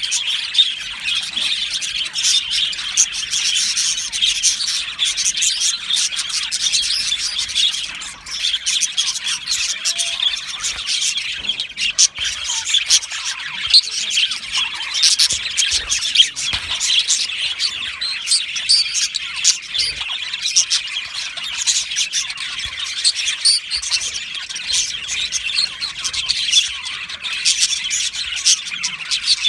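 A colony of budgerigars chirping and warbling together, a dense, continuous chatter of many overlapping high chirps with occasional squawks.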